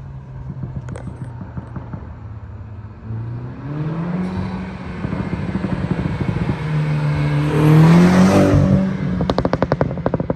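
Stage 1-tuned 2018 BMW 330i with its B48 2.0-litre turbocharged four-cylinder accelerating past, its engine note rising and loudest about eight seconds in. As it comes off the throttle near the end, the exhaust lets out a rapid string of pops and crackles from the tune's overrun burbles.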